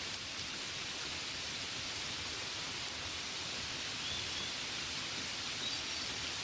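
Steady gentle rain, an even hiss of many fine drops, with a few faint high chirps in the second half.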